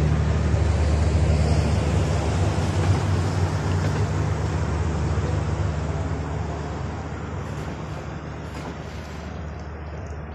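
Passenger train pulling away: a low steady engine hum with the rumble of wheels on rail, fading steadily as the train moves off.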